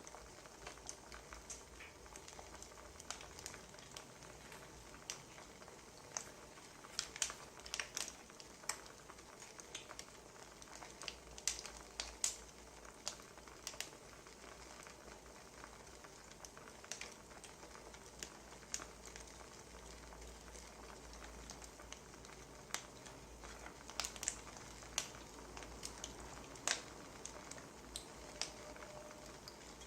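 Wood fire crackling: a soft steady hiss with irregular sharp pops and snaps.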